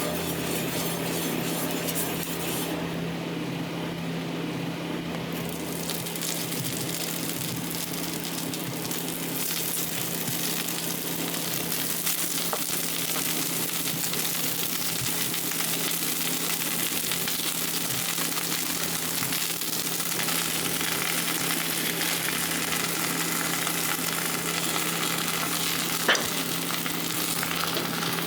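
Buckwheat pancake batter frying in oil in a pan, a steady sizzle that thins out briefly a few seconds in. A single sharp click near the end.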